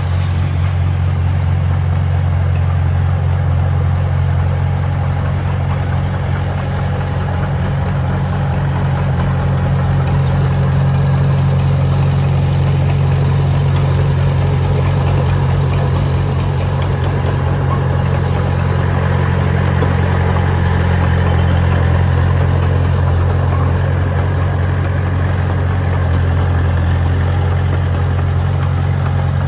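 Diesel engine of earthmoving machinery running steadily, a continuous low drone.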